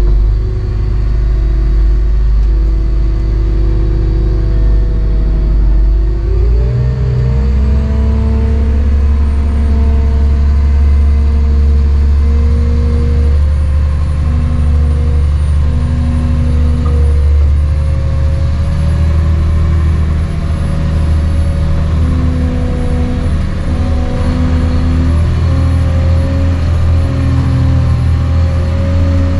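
Caterpillar 725 articulated dump truck's diesel engine running steadily; about six seconds in the revs rise and hold higher, with a faint high whine above the engine note.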